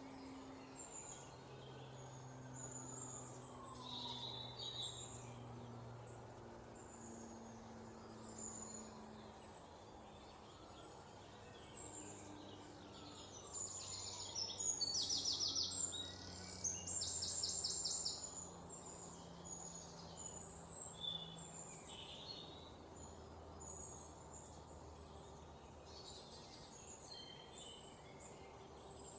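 Several small birds chirping and calling in quick, high notes throughout. The loudest part is a pair of rapid, evenly spaced trills about halfway through.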